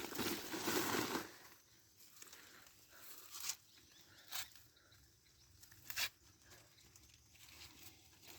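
Dry maize plants rustling and crackling as corn ears are handled and picked, with three short sharp cracks in the middle.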